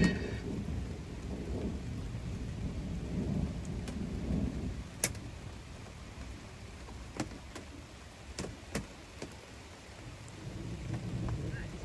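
Low rolling thunder rumbling over steady rain on a camper trailer's roof, with single heavy drips tapping sharply now and then.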